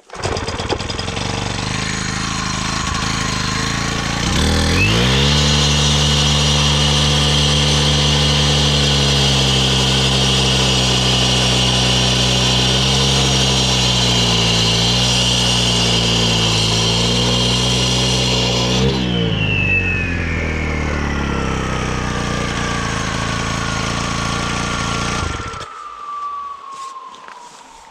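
Makita EK7650H four-stroke concrete saw running at idle, then revved up about four seconds in and held at full throttle, its pitch wavering as the blade cuts through rock with a little water on it. Near the end the throttle is released, and the blade's whine falls steadily as it spins down, continuing after the engine note stops.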